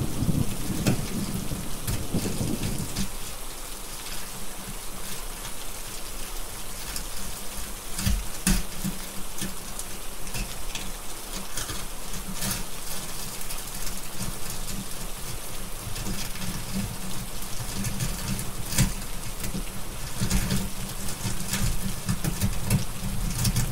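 Steady heavy rain with thunder rumbling low. The rumble fades over the first few seconds and builds again near the end, with scattered sharp crackles from a wood fire.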